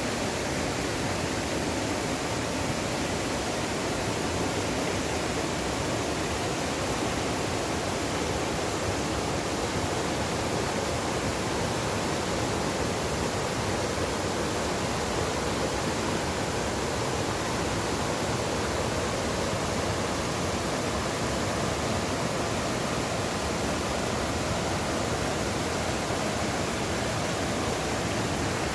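Mountain valley stream rushing in a steady, unbroken wash of water noise.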